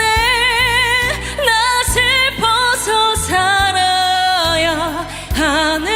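A woman singing a slow Korean ballad over band accompaniment, holding long notes with a wide vibrato, with a rising slide in pitch near the end.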